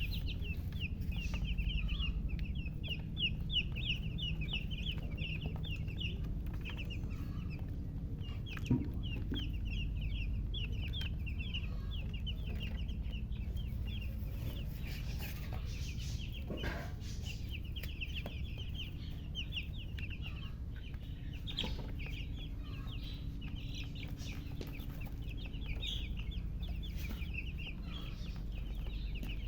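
Newly hatched chicken chicks peeping: a rapid, nearly unbroken run of short high-pitched cheeps from several chicks, pausing briefly twice, over a steady low hum.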